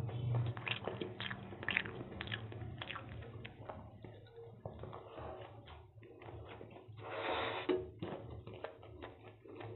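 Close-miked eating of chow mein noodles by hand: wet chewing and mouth clicks and smacks, thickest in the first few seconds, with one louder noisy rush lasting under a second about seven seconds in.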